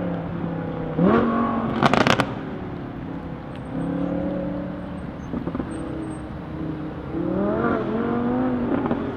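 Audi R8's V10 engine revving up about a second in, with a quick string of sharp exhaust pops and crackles just after, then running steadily before revving up again near the end.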